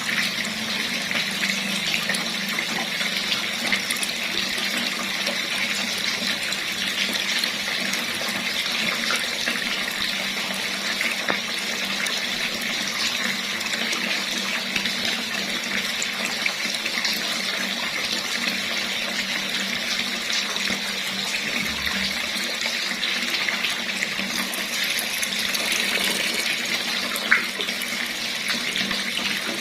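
Water running steadily from a tap, an even splashing rush, with one brief click near the end.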